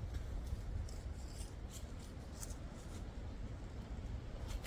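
Footsteps crunching and rustling through dry leaf litter, with a low rumble of wind on the microphone.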